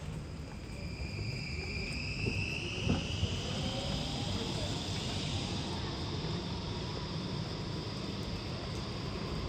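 An electric street vehicle's traction motor gives a high whine that rises in pitch as it pulls away, then levels off and fades, over a steady wet-street hiss. There is a single knock about three seconds in.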